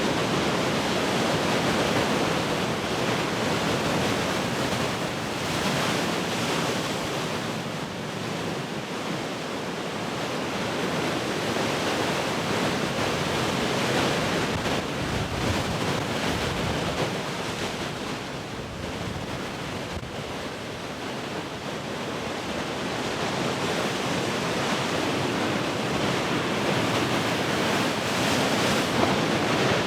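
Heavy ocean surf breaking and washing, a continuous rushing that swells and ebbs over several seconds, with wind blowing across the microphone.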